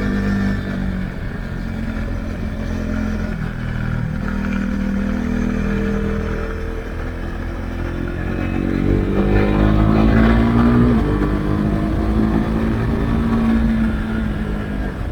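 Husqvarna Svartpilen 401's single-cylinder engine through an Akrapovic exhaust with the dB-killer removed, riding under way. The revs climb and drop back with gear changes, and the strongest pull and loudest stretch come about two-thirds of the way in.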